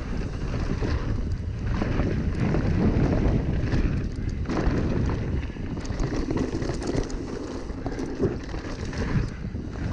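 Wind buffeting a GoPro's microphone during a mountain bike descent, over a steady low rumble of tyres on dirt, with scattered clicks and knocks as the bike rattles over the trail.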